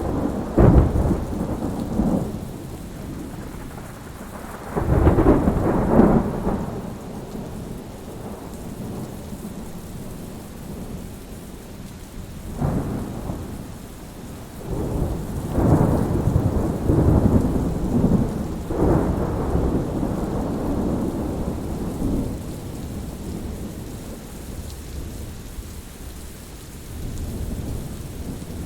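Thunderstorm: steady rain with rolling thunder. There are rumbles about a second in and around five to six seconds in, and a longer series of rolls from about fifteen to twenty seconds in.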